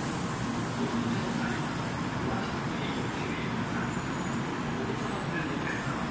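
N700-series Shinkansen train pulling out of the station, its cars rolling past at low speed with a steady rolling noise as the tail car goes by.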